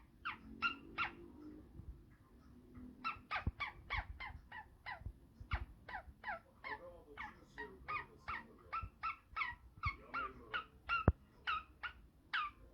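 A parrot calling over and over in short, harsh, downward-sliding squawks, about three a second, with a short pause early on. A few sharp knocks sound among the calls, the loudest about 11 seconds in.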